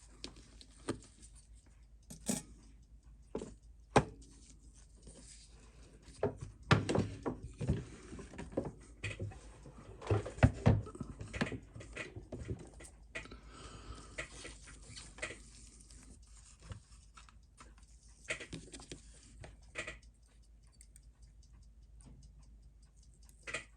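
Irregular small clicks, taps and scrapes of watchmaker's tools and parts on a Seiko 6138 chronograph movement being taken apart. They are busiest from about six to thirteen seconds in.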